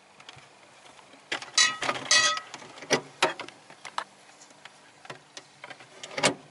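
Clatter of things being handled: a string of knocks and clicks with short rattles, loudest about one and a half to two and a half seconds in, two sharper knocks about three seconds in and one more near the end.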